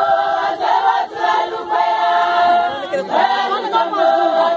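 A group of women singing together unaccompanied in a chorus, with phrases that rise and fall and a new phrase starting about three seconds in.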